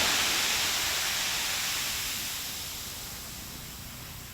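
Ocean surf: the rushing hiss of a wave breaking and washing up the beach, loudest at first and fading away steadily.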